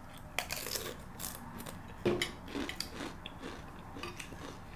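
Close-up eating sounds: scattered light crunches and mouth clicks of chewing, with a louder crunch about two seconds in.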